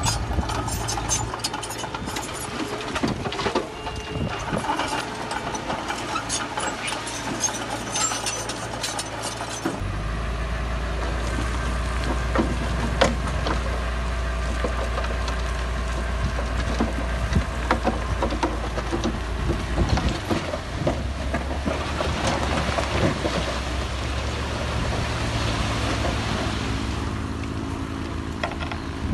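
Heavy diesel earthmoving machinery running. Dense clattering and knocking over the first ten seconds, then a steadier low engine drone.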